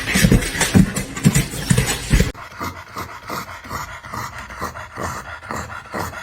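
A dog panting in quick, even breaths, after a louder, busier stretch of sound that cuts off abruptly about two seconds in.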